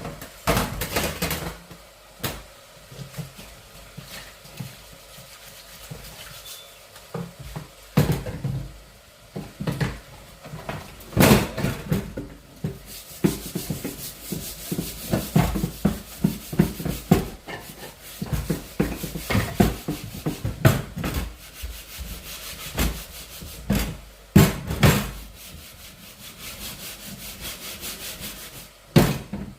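Irregular scraping and rubbing strokes with sharp knocks from kitchen utensils during cooking, densest in the middle stretch.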